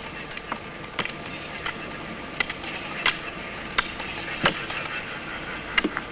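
Ski pole tips striking a gravel road in a fairly even rhythm, about one sharp click every 0.7 s, over the steady gritty rolling of off-road roller skis.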